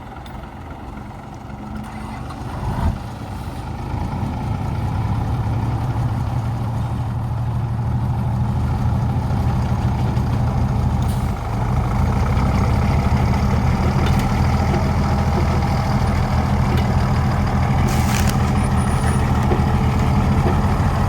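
Heavy truck engine running steadily, growing louder over the first few seconds, with one sharp knock about three seconds in.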